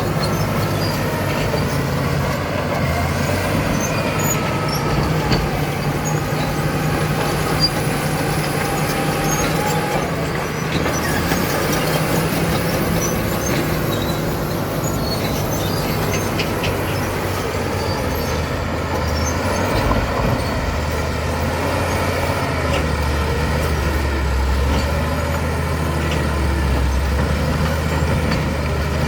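Caterpillar D7 bulldozer's diesel engine running steadily under load, its pitch drifting up and down as it works, with a deeper, stronger hum near the end.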